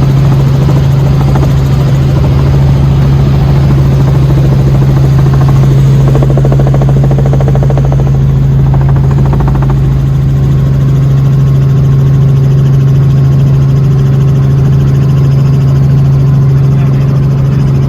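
Helicopter running with a loud, steady low drone, its pitch unchanging throughout.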